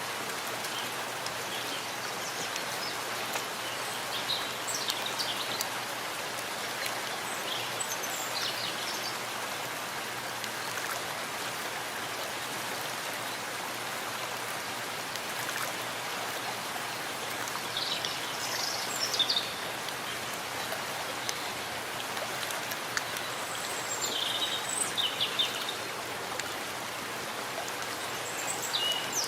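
Steady rain falling in a forest, a constant even hiss. Short high bird chirps come through it every few seconds, clustered around a third and two-thirds of the way through.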